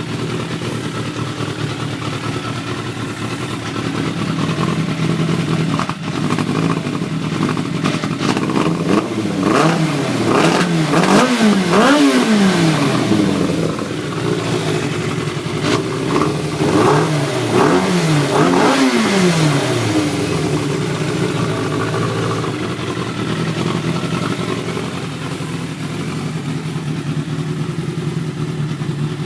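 Motorcycle inline-four (a 1996 Yamaha YZF600 engine in an FZR400 frame) with a Yoshimura 4-into-1 exhaust, idling steadily, then blipped up and down several times in two quick bunches, about a third of the way in and again just past the middle, before settling back to idle.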